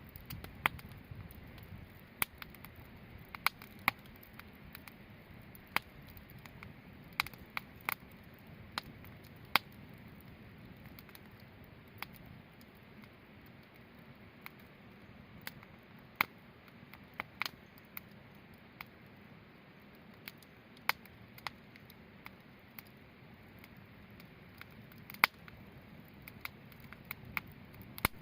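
Wood campfire crackling: irregular sharp pops, about one every second or two, over a soft steady background of the fire.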